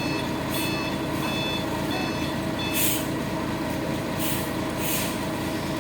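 Dump truck's engine running steadily while its reversing alarm beeps through the first half, then three short hisses of released compressed air, about three seconds in and twice near the end.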